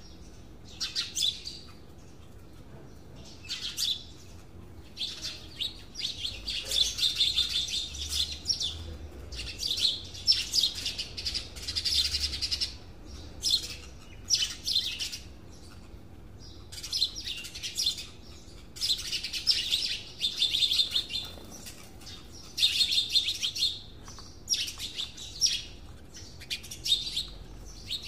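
Small songbirds chirping in bursts of rapid, high chirps lasting a second or two each, with short gaps between.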